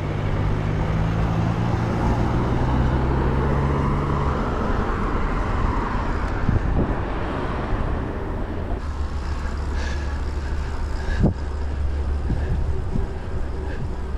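Road traffic heard from a moving bicycle over a constant rush of noise. A motor vehicle's engine drones for the first few seconds and fades, and a single sharp knock comes about eleven seconds in.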